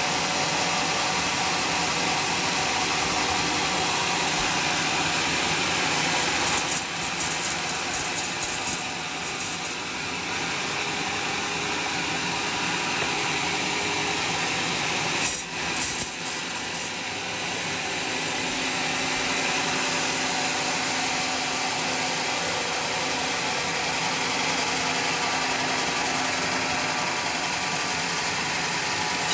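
Homemade sawmill running and sawing through a log, a steady machine noise with louder, crackly spells about a quarter of the way in and again about halfway.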